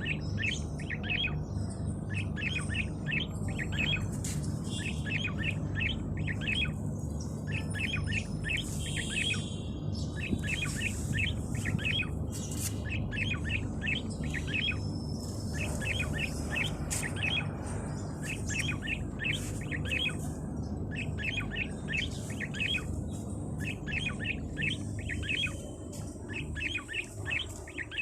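Songbirds chirping: rapid runs of short, high chirps repeated over and over, with other birds' thinner calls higher up. A steady low hum runs underneath.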